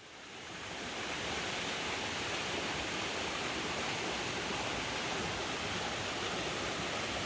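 Steady rush of water falling and running over rocks in a hill stream or waterfall. It fades in over about the first second, then holds even.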